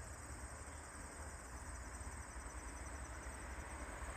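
Faint steady background: a high-pitched pulsing trill, insect-like, over a low hum.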